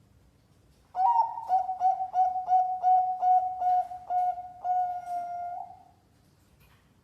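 Zebra dove (perkutut) cooing: a string of about ten short clipped notes, roughly three a second, ending in a longer held note that fades out. It starts about a second in.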